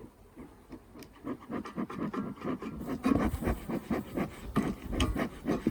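Wooden beehive boxes being worked apart to open the hive: a run of irregular scrapes, creaks and knocks that starts about a second in and grows louder.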